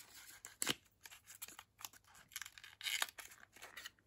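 Small clicks, scrapes and light rustles from hands handling a small cosmetic product and its packaging, with a sharp click about two-thirds of a second in and a busier run of scraping around three seconds in.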